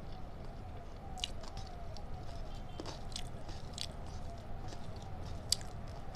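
A person chewing and biting food close to the microphone, with scattered sharp crunchy clicks and one sharper crack about five and a half seconds in.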